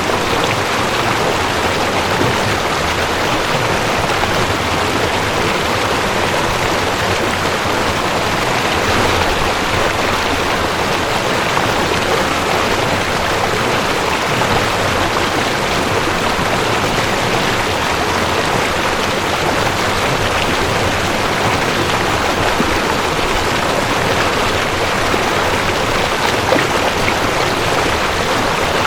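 Mountain stream rushing over rocks: a steady, even rush of water with no pauses.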